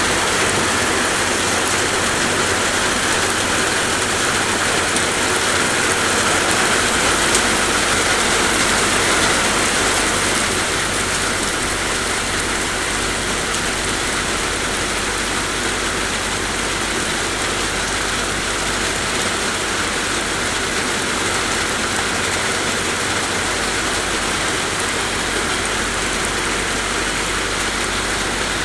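Steady rain falling, an even hiss that holds at the same level throughout, with a faint low hum beneath it.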